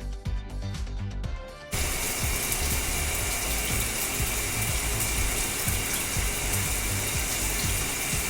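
Cartoon car-wash water spray sound effect: a loud, steady rush of spraying water that starts about two seconds in, over background music with a steady beat.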